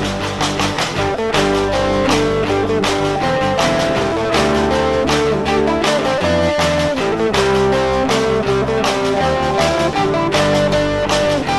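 Instrumental break of a rock song: guitar and band playing steadily, with no singing.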